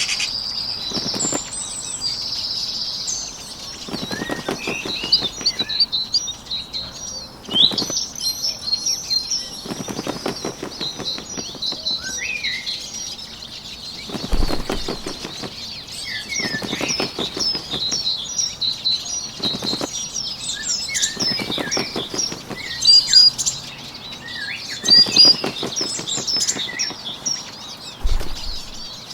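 Small songbird chirping steadily, with bursts of rapid wing flapping about every two to three seconds, each lasting around a second.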